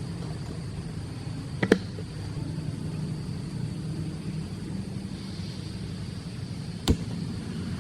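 Steady rain with a low rumble at a camp, broken by two sharp knocks, one a little under two seconds in and one near the end.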